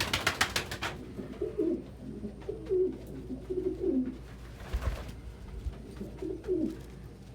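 Domestic pigeons cooing repeatedly in low, warbling phrases. A quick run of sharp beats sounds in the first second, and a single thump comes about five seconds in.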